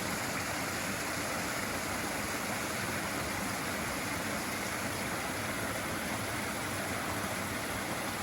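Steady rush of a flowing stream or river, an even, unbroken water noise.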